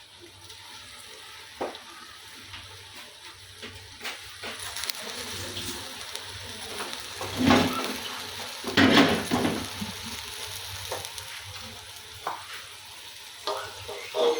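Green-leaf vegetables with smoked fish sizzling in palm oil in a pot, with a spoon stirring and scraping against the pot, the loudest strokes about halfway through.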